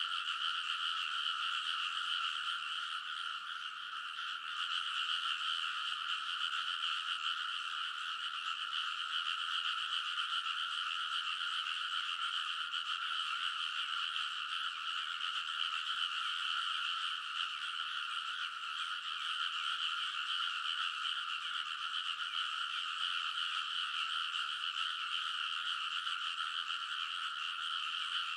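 Dense chorus of many frogs in a flooded rice paddy, calling all at once in a steady, unbroken wall of croaking, with a brief dip in loudness about four seconds in.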